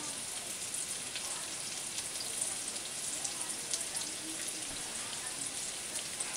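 Breaded zucchini slices shallow-frying in light olive oil in a skillet: a steady sizzle with many small crackling pops.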